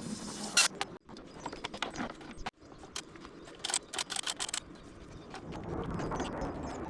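Air shock (rear air suspension strut) of a BMW G 650 Xchallenge being worked up and down, giving a series of short squeaks and knocks as it compresses and rebounds.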